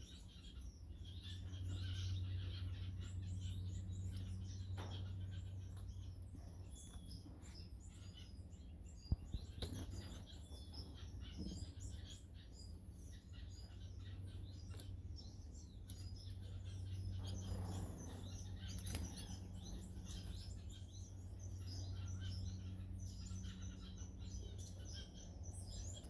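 Small aviary finches chirping, with many short high calls scattered throughout. Under them runs a steady low hum, and a single sharp click comes about a third of the way in.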